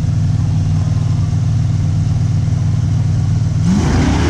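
A car's engine idles loudly and steadily while staged at a drag-race start line. About three and a half seconds in it revs up, rising in pitch and growing louder.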